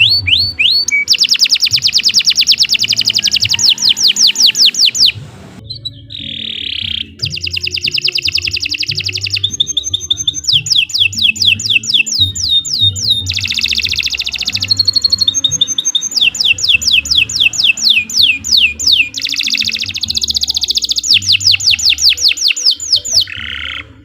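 Domestic canary singing a long, continuous song of fast trills and rapidly repeated whistled notes, pausing briefly about five seconds in and again near the end.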